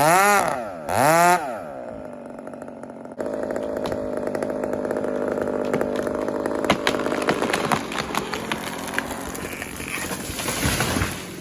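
Two-stroke chainsaw revved in two quick throttle blips, easing back, then cutting in steadily at high speed through the wood. A scatter of sharp cracks and snaps comes through the saw noise in the second half.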